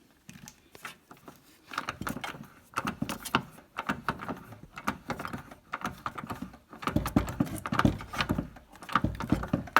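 Irregular clusters of sharp clicks and knocks from a spark plug pressure-test rig as its air pressure is being raised, busier and louder in the second half.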